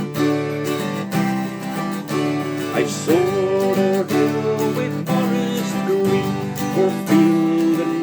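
Instrumental music: acoustic guitar strummed under a gliding melody line, the opening of a folk-style song.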